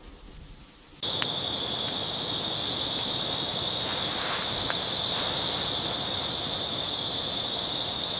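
A steady, loud, high-pitched insect chorus that starts suddenly about a second in and holds level.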